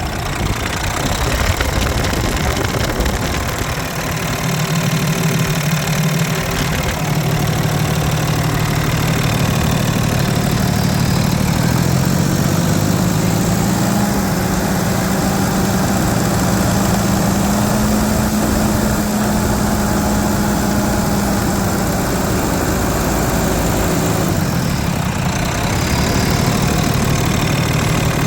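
Cummins ISC 8.3-litre inline-six diesel engine running at idle. Its speed rises slightly about halfway through, holds for several seconds, then settles back down near the end.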